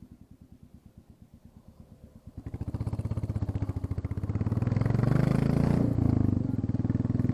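Royal Enfield Classic 350 single-cylinder engine run with its exhaust end tip removed. It thumps quietly at low revs, then about two and a half seconds in the throttle opens and the exhaust note climbs to a loud, steady pull, dipping briefly near six seconds.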